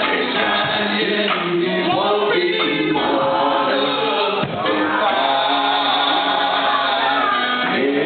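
Group of brothers singing a gospel song in harmony, with long held notes in the second half.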